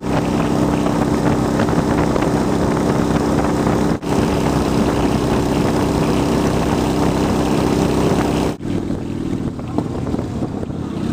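A 2003 Honda Shadow 750's V-twin with Cobra aftermarket pipes running at a steady cruising speed, with wind noise. The sound breaks off briefly twice, about four and eight and a half seconds in, and is a little quieter after the second break.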